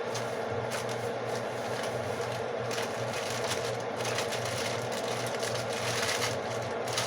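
A crisp tostada shell crunching as it is bitten and chewed, in scattered crackles, over a steady background hum.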